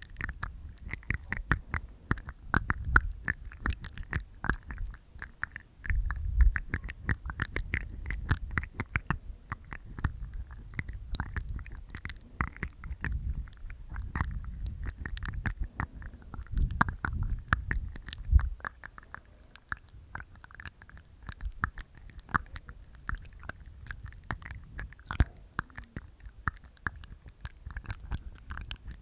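Close-miked ASMR mouth sounds made inside the mouth: a dense, uneven stream of wet tongue and teeth clicks, with low rumbling in a few stretches.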